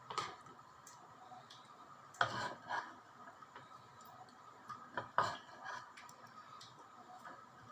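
Kitchen utensils and dishes clinking and knocking at irregular moments, with a few sharper knocks about two seconds in and again about five seconds in, and faint small ticks between.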